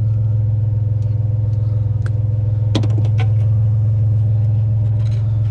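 Truck engine running steadily at a constant low pitch, with a couple of light clicks about three seconds in.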